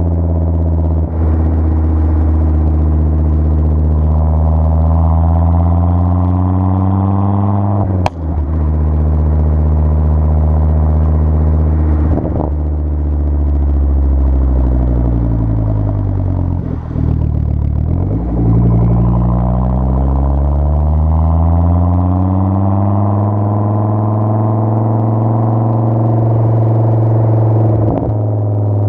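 2004 Volvo S60R's turbocharged five-cylinder engine running through a custom 3-inch exhaust with resonators. Its pitch falls slowly through the middle and then climbs again, with a few brief drops in level and a sharp click about eight seconds in.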